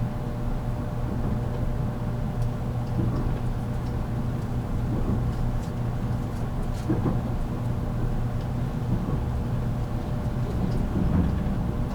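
JR Kyushu 783 series limited-express electric train running, heard from inside its motor car MoHa 783-13. There is a steady low rumble of wheels on rail and a constant motor hum, with a few faint ticks.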